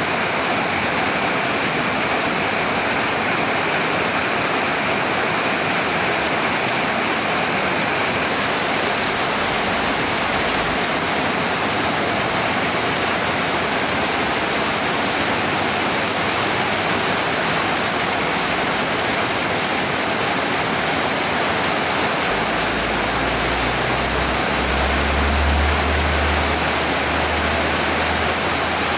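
Heavy rain pouring down steadily. A low rumble joins in over the last several seconds.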